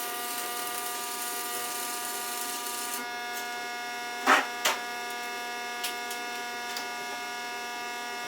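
Electric welder buzzing steadily while welding, with a hiss over the buzz that stops about three seconds in. Two sharp knocks follow a little over a second later, then a few faint ticks.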